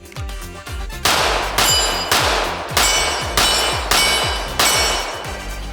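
Seven pistol shots from a ported Glock 17 at a steady pace of a little under two a second, starting about a second in, with steel targets ringing. Background music with a steady electronic beat and deep falling bass plays under the shots.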